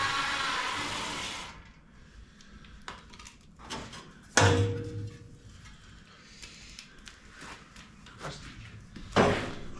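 Metal parts and hand tools being handled under an old pickup's front end: a brief hiss at the start, scattered clicks, then a loud metal clank about four seconds in that rings briefly, and another clank near the end.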